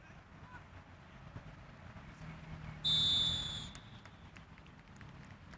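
A referee's whistle blown once, a short high-pitched blast about three seconds in, over a low steady background.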